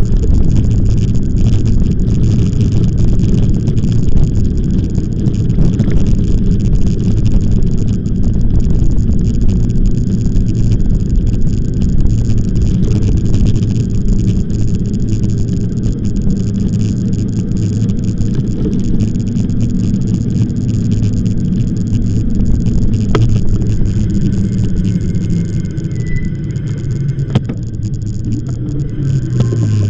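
Steady low rumble of riding an e-bike: wind and road noise on the microphone, loud and unbroken, easing slightly near the end.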